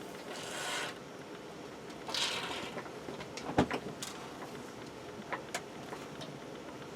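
Spray foam can hissing in two short bursts as gaps are filled, followed by a sharp click and a few light ticks.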